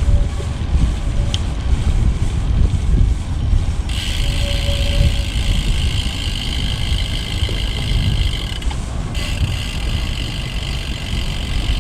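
Road bike ride: wind rumbling on the microphone together with tyre noise on the path. From about four seconds in, a steady high buzz from the rear freewheel ratcheting while coasting joins it, with one brief break just before nine seconds.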